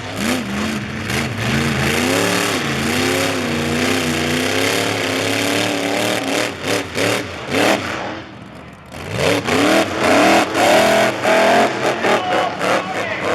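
Monster truck engine revving hard, its pitch wavering up and down. About eight seconds in it drops off briefly, then climbs back up and revs again.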